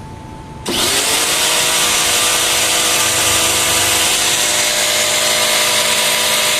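Lotus LTPW140CX 1400 W electric pressure washer switched on about two-thirds of a second in. Its motor and pump spin up with a short rising whine, then run loud and steady with a strong hiss.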